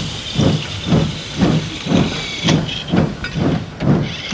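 Steam locomotive chuffing steadily, about two puffs a second, over a constant hiss of steam.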